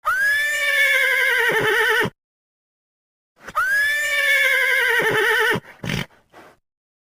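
A horse whinnying twice, each call about two seconds long: a sharp rise in pitch, then a long quavering slide downward. The second call is followed by two short breaths.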